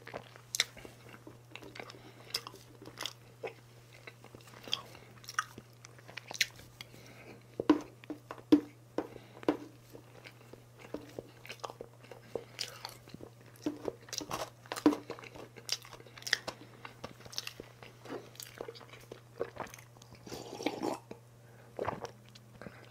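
Close-miked chewing and crunching of chocolate cake with chocolate shavings, in an irregular run of small wet clicks and crackles, with the occasional light tap of a metal fork.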